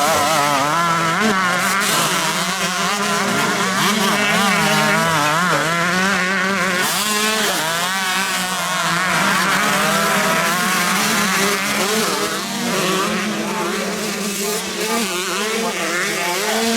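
Several 125cc two-stroke motocross bikes racing, their engines revving up and down constantly and overlapping as the riders work the throttle.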